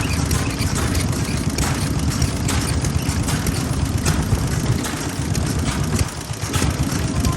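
Vintage single-cylinder stationary farm engines (hatsudoki) running in a low, steady chug, with sharp firing knocks repeating a little more than once a second.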